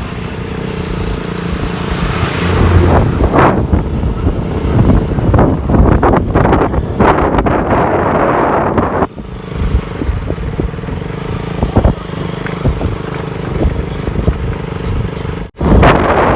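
KTM RC 200's single-cylinder engine running as the motorcycle is ridden, with wind buffeting the microphone. The sound drops out for an instant near the end.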